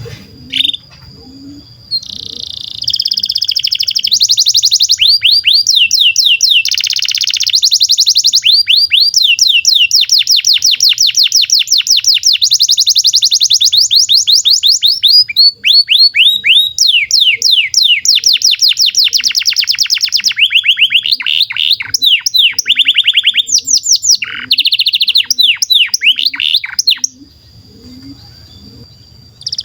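Domestic canary singing a long song of fast trills and rolls, each phrase a rapid run of repeated falling notes. The song starts about two seconds in and drops away near the end, leaving a thin steady whistle.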